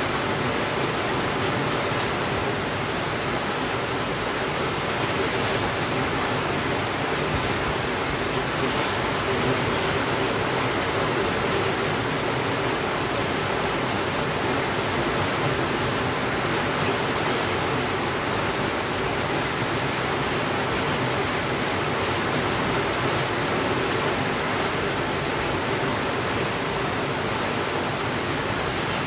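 Steady rainfall, a dense, even hiss with no distinct drops or other events standing out.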